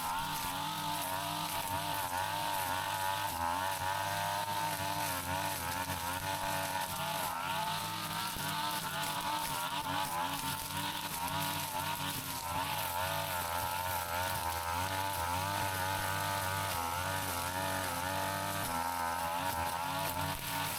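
Brush cutter engine running continuously, its pitch wavering up and down as it cuts through tall grass and weeds.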